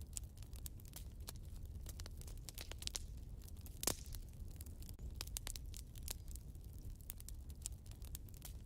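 Wood fire burning in a fireplace: irregular crackles and snapping pops over a low steady rumble of flames, with one louder pop about four seconds in.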